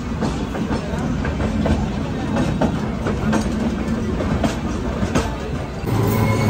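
Train running, heard from inside a crowded passenger coach: a dense rumble with irregular clicks and knocks from the wheels and couplings. Near the end it changes suddenly to a louder steady hum with several held tones, alongside an Indian Railways WAG-9 electric locomotive.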